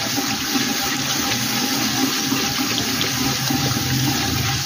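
Tomatoes and sliced green chillies sizzling in hot oil in a clay handi as a wooden spoon stirs them: a steady, wet hiss.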